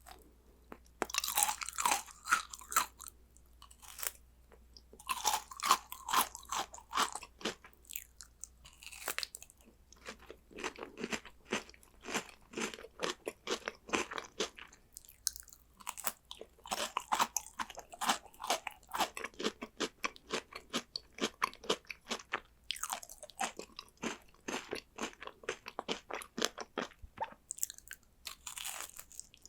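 Close-miked crunching and chewing of crunchy chocolate snacks, in bouts of a few seconds of rapid crisp crunches broken by short pauses.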